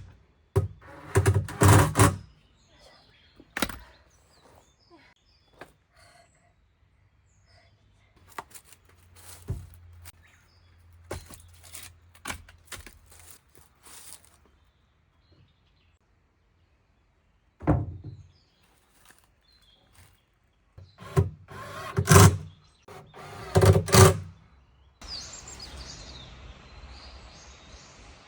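Irregular wooden knocks and thunks, in clusters with pauses between them, typical of 2x4 lumber being handled and set in place. Near the end, small birds chirp over a steady outdoor hiss.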